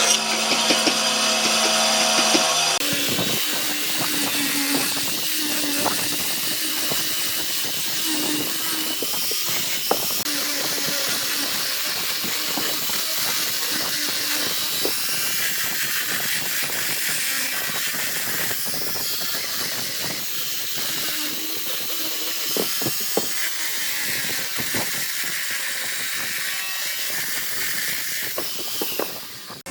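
A power tool working on wood: a motor whine for about the first three seconds, then a long hissing grind with scattered clicks.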